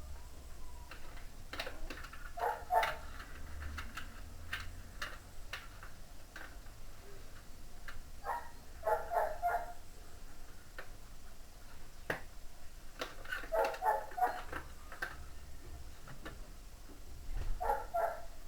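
A dog barking in four short runs of quick barks, with scattered sharp clicks and knocks between them.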